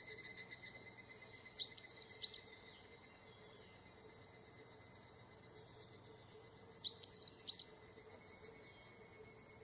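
Higurashi evening cicadas calling in a steady high chorus, one pulsing call fading out in the first half second. A songbird sings a short phrase of quick chirps twice, about a second in and again about six seconds in; these are the loudest sounds.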